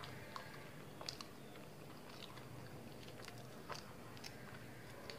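A person chewing a spoonful of bun bread with chilled custard: faint, scattered soft mouth clicks.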